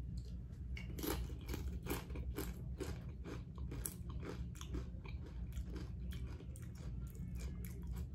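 A person chewing crunchy chips dipped in sauce: a steady run of crunches, about two or three a second.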